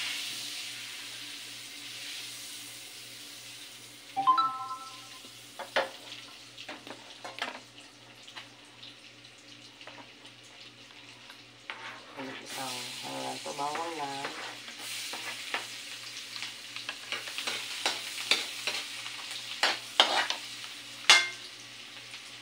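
Butter sizzling in a wok, the frying growing louder after chopped garlic and green chili go in about halfway through. A metal ladle scrapes and knocks against the pan, with the sharpest knocks near the end.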